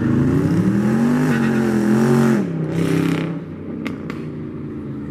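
Car engine revving: the pitch climbs over about a second, holds, then drops back sharply, and the sound fades soon after.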